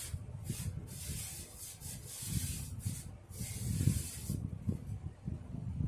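A rag wiping and rubbing the dust off the box fan's plastic parts in several quick strokes, over low handling knocks; the wiping stops about four seconds in.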